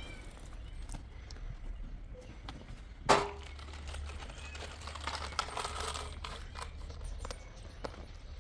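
A single sharp knock about three seconds in, with a short ring after it, amid light scattered clicks and rustling.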